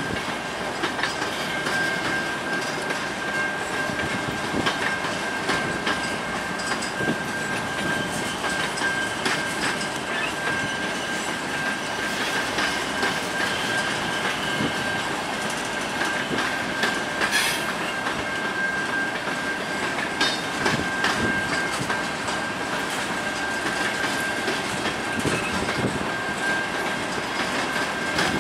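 Covered hopper grain cars of a long freight train rolling past at steady speed, their wheels clacking over the rail joints. A steady high-pitched squeal from the wheels rides over the rumble.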